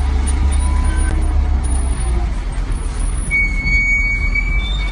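A heavy engine running steadily with a deep rumble; a high whining tone joins for about a second and a half past the middle.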